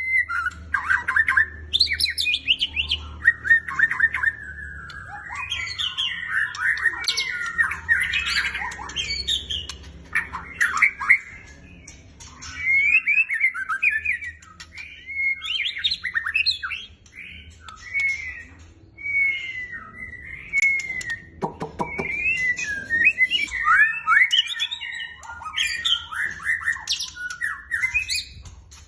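White-rumped shama (murai batu) singing a long, varied song of clear whistles, quick chattering phrases and harsh notes, almost without pause: the full 'gacor' singing prized in a competition bird.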